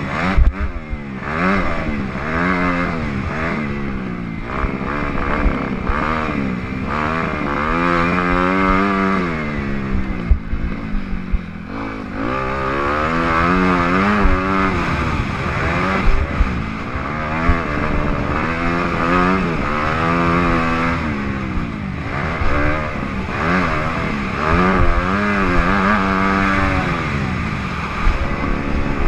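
Motocross dirt bikes racing, their engines revving up and dropping off again and again as the riders accelerate, shift and brake around the track.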